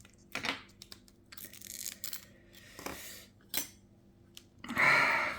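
Small metal tools and glass parts of a phone screen clicking and scraping against each other and the work surface: a few sharp ticks and short scrapes, then a louder rasp near the end.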